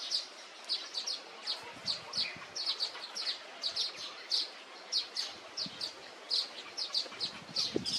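Small songbird chirping: a steady string of short, high, sharp notes, two or three a second, over a faint background hiss.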